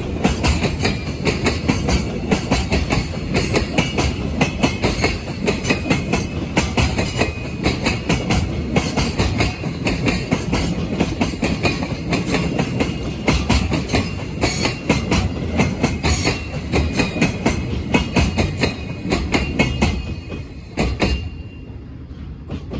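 Freight train wagons rolling past, with wheels clattering in a rapid, uneven run of clicks over the rail joints. About 21 seconds in, the clatter drops away as the end of the train passes, and the rumble fades.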